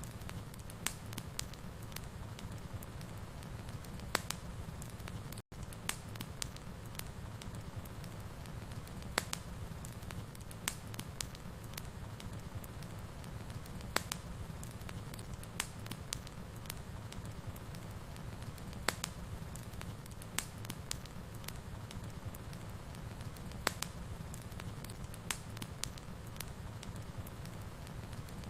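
Wood fire burning in a fireplace: a steady low rumble of flames with irregular sharp crackles and pops, roughly one every second or two. The sound cuts out for an instant about five seconds in.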